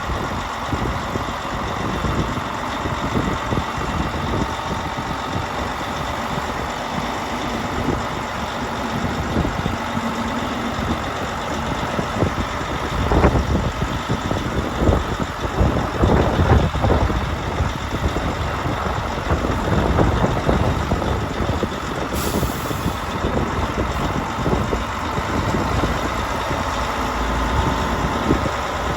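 Heavy diesel engines of a road paver and a hook-lift truck running steadily, with a run of clanks and knocks from the steel machinery around the middle, and a short hiss of air about three-quarters of the way through.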